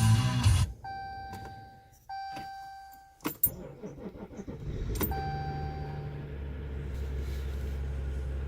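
A loud thump, then the Ram 1500 EcoDiesel's dashboard warning chimes and clicks as the key is turned. The 3.0 L V6 turbodiesel cranks briefly, catches about four and a half seconds in and settles into a steady idle. This is a cold start at about 3°F without the block heater plugged in, and the owner says it is running a little rough.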